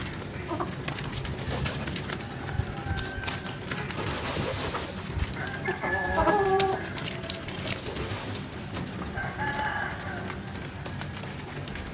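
Birds calling, with two calls standing out, one about six seconds in and another near nine and a half seconds.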